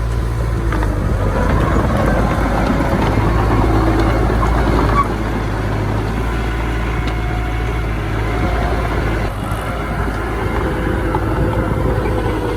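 Diesel engine of earthmoving machinery running steadily under work, a low drone with short higher tones coming and going over it.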